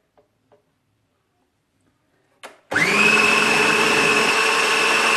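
A few light clicks, then an electric food chopper's motor starts about two and a half seconds in, spinning up at once and running steadily with a high whine as it chops a mayonnaise and chicken mix.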